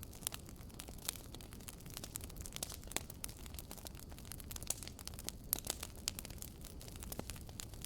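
Campfire burning: irregular sharp crackles and pops, several loud ones scattered through, over a steady low rumble of the flames.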